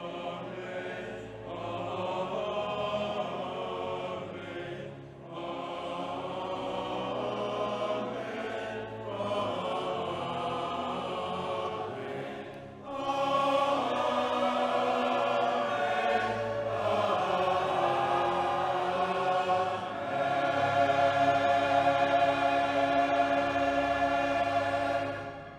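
Closing music of a choir singing, long held chords in phrases of a few seconds, growing louder about halfway through and again near the end before fading out.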